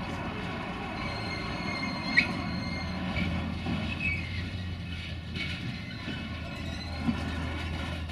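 A train moving along the track, its steel wheels squealing over a steady low drone. There is a sharp clank about two seconds in and another near the end.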